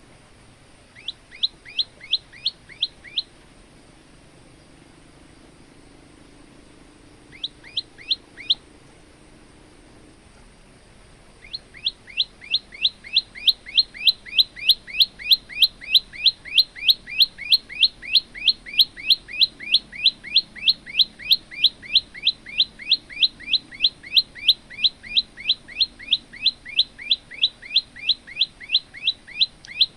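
Male prenjak lumut singing: two short bursts of sharp, repeated chip notes, then from about eleven seconds in a long, fast run of the same notes at roughly three to four a second.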